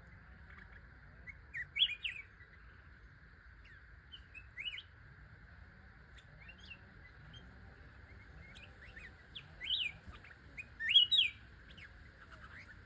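A small songbird, the 'charcoal-headed bird' (นกหัวถ่าน), giving short rising chirps in scattered clusters, loudest about two seconds in and again near the end, over a faint steady high drone.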